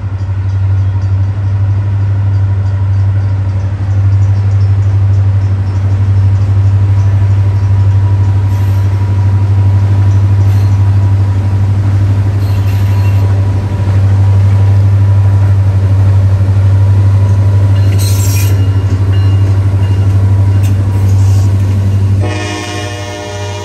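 Freight train led by two EMD GP40-series diesels with slugs, approaching and then passing close, the engines giving a deep steady rumble. Near the end a horn chord sounds as the locomotives pass.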